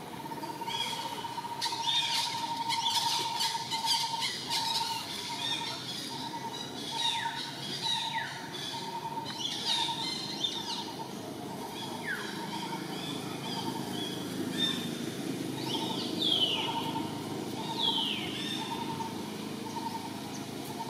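Birds calling: one repeats a short mid-pitched note about twice a second, while others give high, falling whistled calls now and then. Some crackling comes in the first few seconds.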